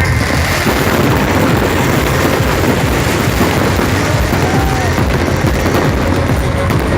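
Fireworks display going off in a dense, continuous rapid-fire crackle of bursts and booms.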